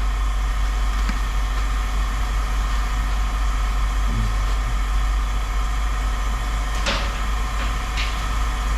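Steady low rumble of an idling vehicle engine, with a few faint clicks and knocks.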